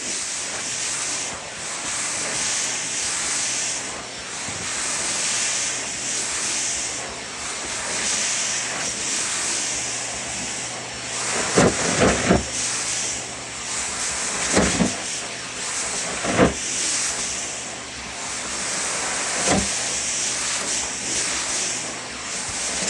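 Vacuum cleaner running, a steady rushing hiss of suction that swells and eases every couple of seconds. Several short knocks come a little past the middle.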